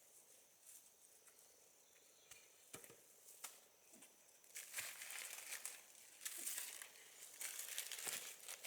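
Faint rustling and crackling in two longer stretches in the second half, after a few sharp clicks.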